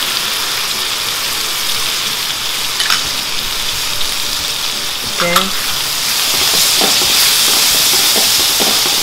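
Shrimp, diced Chinese sausage and garlic sizzling in hot oil in a stainless steel wok, with the spatula stirring and a few light clicks against the pan. The sizzle grows louder about two-thirds of the way in.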